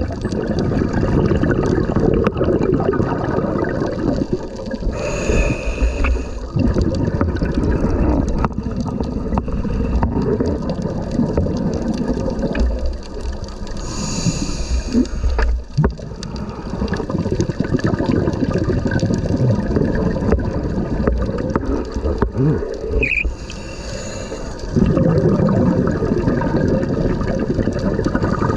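Churning water noise heard through an underwater camera housing in strong, swirling current, with brief bubbly hissing bursts three times.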